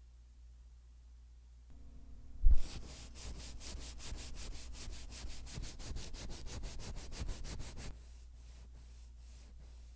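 Hand wet-sanding an oil-finished solid wood surface with 600-grit sandpaper folded under the fingertips, in quick back-and-forth rubbing strokes along the grain, about six a second; the strokes turn fainter about eight seconds in. A single loud thump just before the sanding starts.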